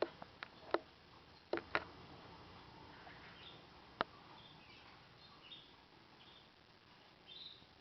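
Canaries in an aviary giving soft, short chirps, with a few sharp clicks and taps: several in the first two seconds and one about four seconds in.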